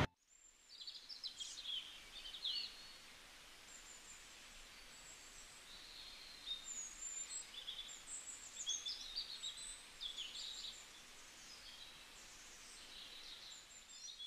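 Faint chirping of small songbirds, many short calls coming and going over a steady background hiss.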